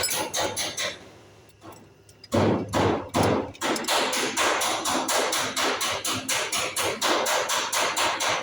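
Rapid, even hammer blows, about four or five a second, pausing for about a second and a half after the first second and then resuming.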